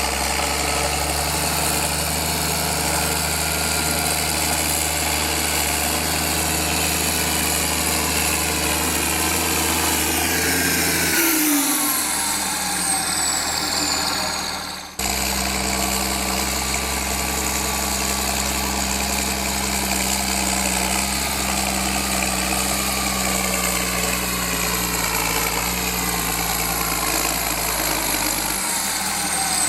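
Turbocharged diesel engine of a Ford New Holland 7840 tractor running steadily. Twice, about eleven seconds in and near the end, the engine note drops away and a high turbo whine falls in pitch as the turbo spools down.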